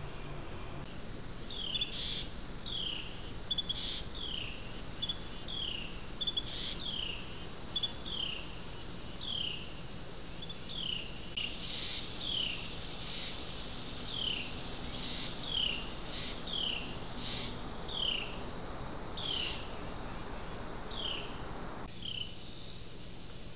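A songbird repeating a short, high, downward-slurred whistle about one and a half times a second, over a steady high hiss; the calls stop shortly before the end.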